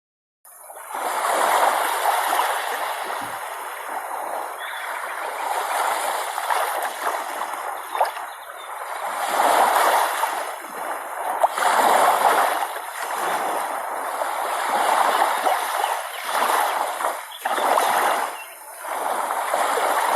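Water splashing and washing in uneven surges every second or two, with a few sharp splashy clicks.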